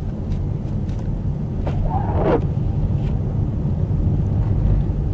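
Steady low rumble of a car driving on a snowy highway, heard from inside the cabin. A brief pitched sound rises and falls about two seconds in.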